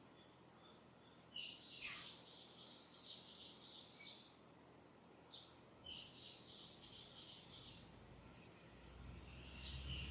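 A wild songbird singing twice, each phrase a short note followed by a quick run of about seven bright, repeated chirps, with a third phrase starting at the very end. A faint low rumble rises in the last couple of seconds.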